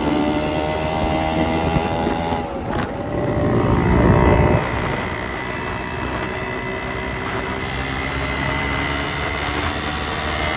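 Yamaha motorcycle engine running under way, its pitch dropping once about two and a half seconds in, with a louder low rumble around four seconds before it settles into a steady run.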